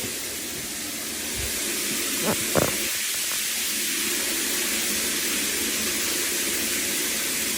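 Newly repaired shower head running, its water spray hissing steadily.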